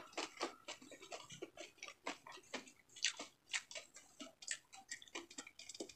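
Faint, close-miked crunching and clicking from chewing crispy deep-fried pork bagnet, with irregular sharp crackles a few times a second mixed with the handling of lettuce leaves.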